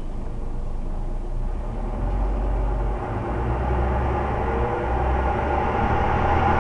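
Scania OmniCity single-deck bus running, a steady low engine rumble with a drivetrain whine that rises in pitch about four to five seconds in.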